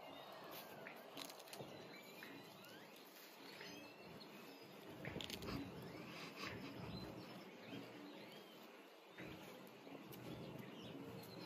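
Faint outdoor background with small birds chirping and twittering on and off, with a few soft scuffs and clicks.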